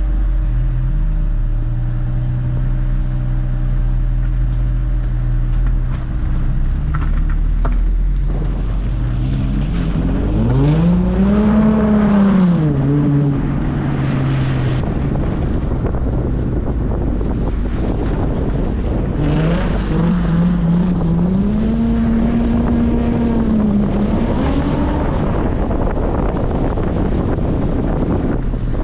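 Nissan 350Z's V6 engine heard from inside the car while driving, running steadily, then revving up and back down twice, about ten seconds in and again past the middle, over constant road and wind noise.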